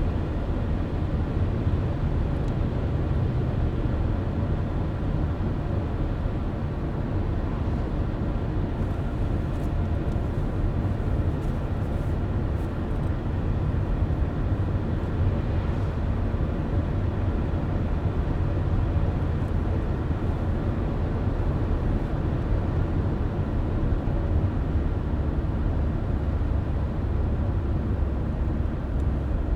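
Car driving at a steady speed: continuous low rumble of road and engine noise with no change in pace.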